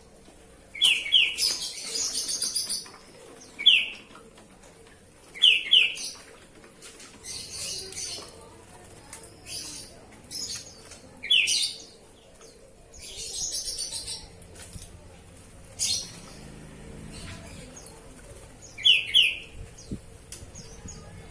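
Oriental magpie-robin giving short, sharp two-note calls about five times, between bursts of wing-fluttering and splashing as it bathes.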